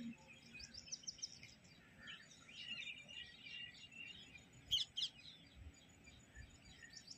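Small birds chirping and twittering in quick sweeping notes, with two loud sharp chirps a little past the middle.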